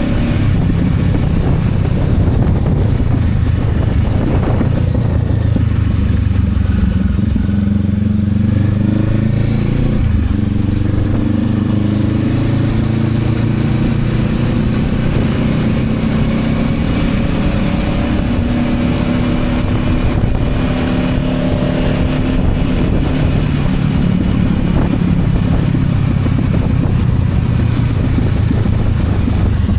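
Honda CB500X's 471 cc parallel-twin engine running while riding, heard on board over steady wind and road noise. The engine note changes around the tenth second, climbs slowly as the bike speeds up, and drops about two-thirds of the way through.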